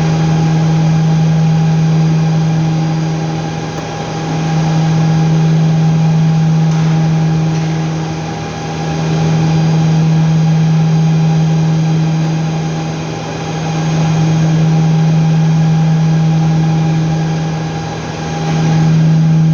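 Steady, loud machine hum with one strong low tone, swelling and fading in a regular cycle about every four and a half seconds.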